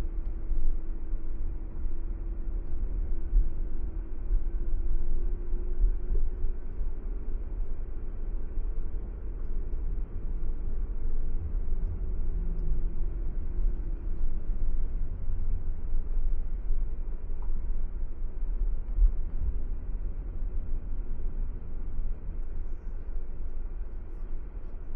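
Car driving at steady speed: a low road and engine rumble, with a faint engine hum that rises a little and fades out about halfway through.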